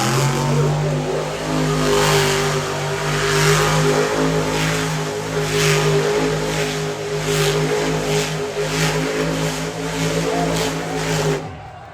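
Monster truck engine held at high revs under load, steady in pitch with repeated short surges, then cutting off sharply near the end.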